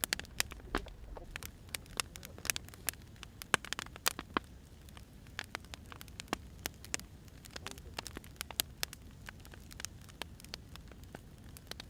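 Wood fire crackling: irregular sharp pops and snaps from burning firewood over a low steady hiss.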